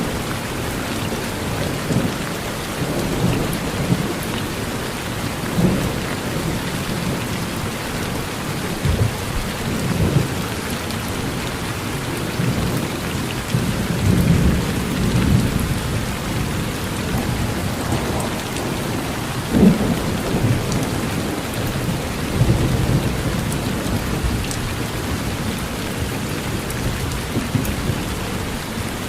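Steady rain falling, with repeated low rumbles of thunder rolling through; the strongest rumble comes about two-thirds of the way in.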